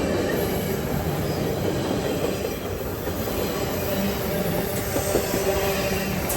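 Railway cars of a passing train rolling by: steady wheel-on-rail noise with a faint thin squeal and scattered light clicks.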